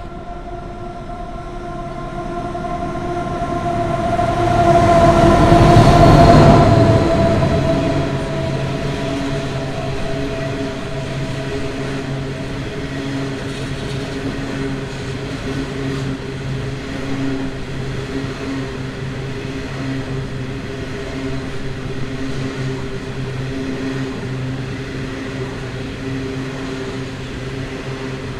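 Loaded coal train passing close by. The diesel locomotive's drone grows to its loudest about six seconds in, its pitch dipping slightly as it goes by, followed by the steady rumble of the coal wagons rolling past.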